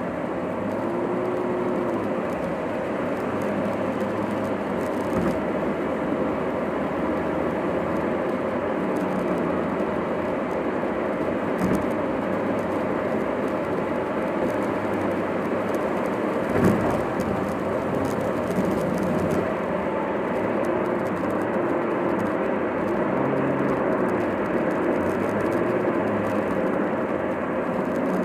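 A car driving on the road, heard from inside the cabin: a steady mix of road and engine noise with a few short knocks, the loudest about 17 seconds in.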